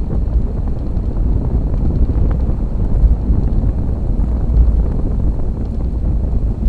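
Wind buffeting the microphone of a camera riding on a moving bicycle: a steady low rumble, with a few faint ticks.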